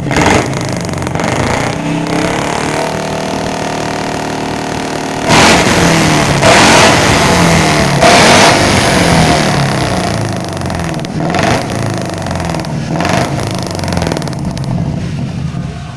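Suzuki Carry pickup's engine running through a custom exhaust with a 431 header and muffler, idling and then blipped several times about five seconds in, the exhaust note rising and falling before settling back to a steadier run.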